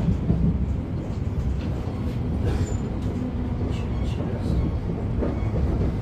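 Class 710 electric multiple unit running along the line, heard from inside the carriage: a steady low rumble of wheels and running gear, with a few faint clicks.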